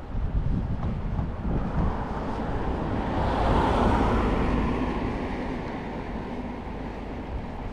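A passing vehicle that swells, peaks about half-way through and fades slowly, falling a little in pitch as it goes by, over the steady rumble of wind on the microphone.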